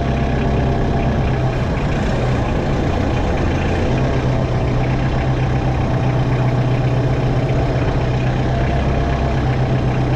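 Diesel engine of a Kubota M59 tractor-loader-backhoe running steadily at low speed.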